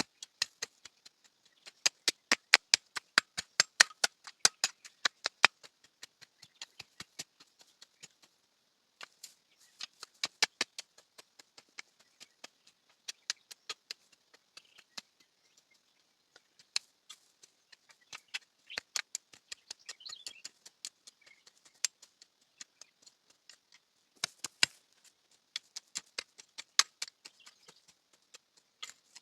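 Runs of sharp clicks or taps, several a second, starting and stopping in bursts over a faint high hiss.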